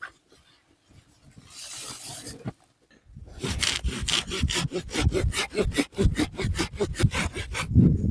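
Hand saw cutting wood. A short soft scrape comes first, then from about three seconds in a fast, even run of back-and-forth strokes, roughly six a second.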